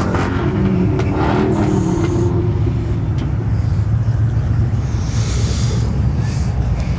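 Pickup truck engines revving and running loudly, the engine note sagging in pitch over the first couple of seconds and then holding as a steady low drone.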